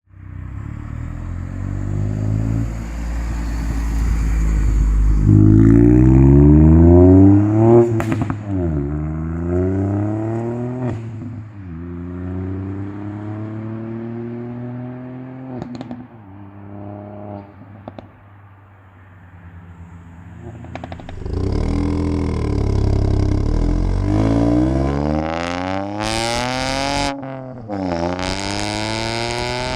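Ford Fiesta ST Mk8's turbocharged three-cylinder engine and exhaust pulling hard through the gears. The revs climb and drop sharply at each upshift, with a few sharp cracks from the exhaust. After a quieter stretch mid-way comes a second hard pull through several gears.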